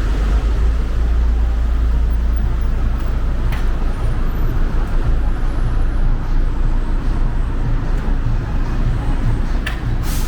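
Steady low rumble of vehicle traffic, with a couple of short clicks about three seconds in and near the end.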